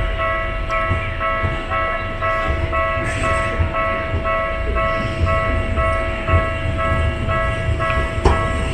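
Japanese railway level-crossing warning bell ringing in an even, repeating ding-ding of two or three strikes a second, over the low rumble of a Tokyu Setagaya Line tram. A sharp knock sounds near the end.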